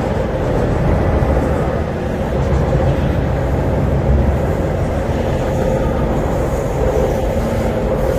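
MTR C-Train electric multiple unit running steadily, heard from inside the carriage: a continuous low rumble of wheels on track with a steady hum.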